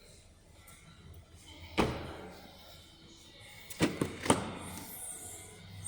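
Four sharp knocks: one about two seconds in, then three close together a couple of seconds later, over a faint low hum.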